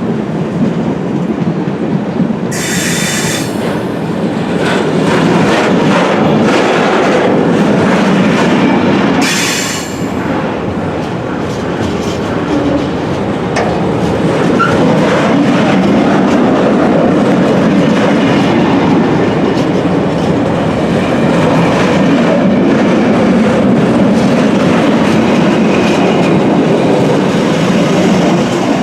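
A train running past close by at length, a steady rumble and clatter of wheels on the rails, with two short high-pitched squeals about three and nine seconds in.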